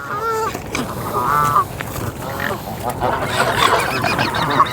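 A large flock of Canada geese honking: a few separate honks at first, then many overlapping calls from about three seconds in.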